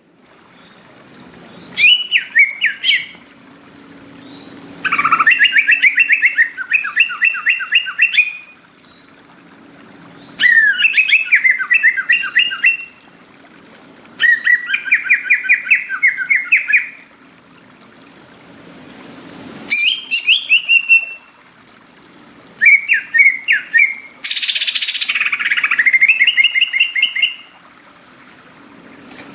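Green leafbird (cucak ijo) singing in repeated loud bouts of quick, warbling whistled notes, each bout one to three seconds long with short pauses between. A brief rushing hiss comes in about two-thirds of the way through.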